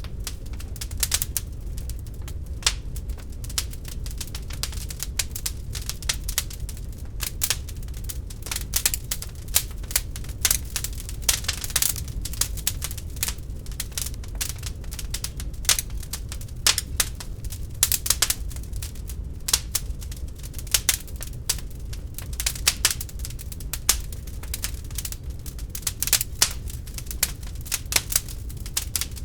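Wood fire burning in a fireplace, crackling and popping in quick, irregular snaps over a low, steady rumble of flames.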